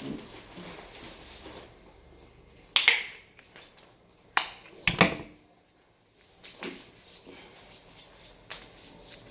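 A few sharp knocks and clicks, as of objects being handled: one about three seconds in, then a close pair about five seconds in, with fainter ones later.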